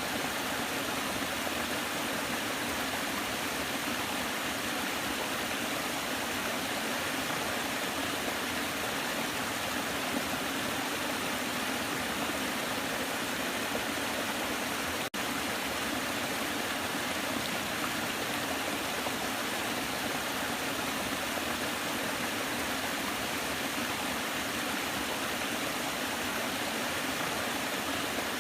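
Waterfall rushing in a steady, even wash of water noise, with a momentary break in the sound about halfway through.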